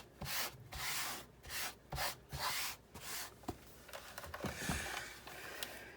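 Quick hand rubbing strokes, about three a second, as debris is cleaned out of a disassembled Big Shot die-cutting machine; after a few seconds they turn into a softer, steadier scrubbing with a few light knocks.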